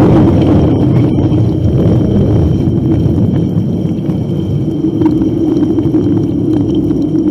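A loud, steady low rumble with a droning hum, easing off slightly toward the end.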